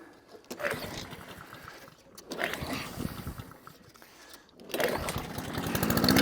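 Honda engine on a Mountfield rotary lawnmower being pull-started on choke: three pulls of the recoil starter cranking the engine, the last one catching at the very end as the engine fires. The engine has a carburettor fault that makes it cut out and reluctant to restart.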